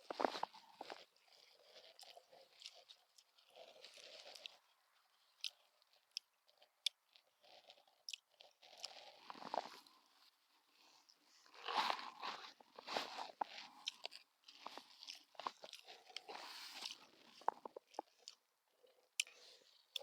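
A person eating rehydrated spicy pork noodles: chewing and rustling in irregular bursts, with scattered sharp clicks and quiet gaps between mouthfuls.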